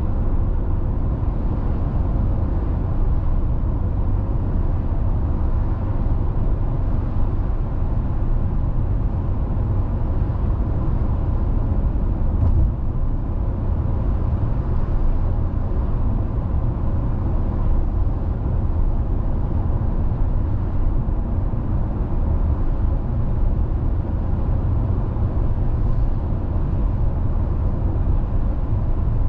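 A car driving at steady speed on the road: a continuous low rumble of tyres and engine that does not change.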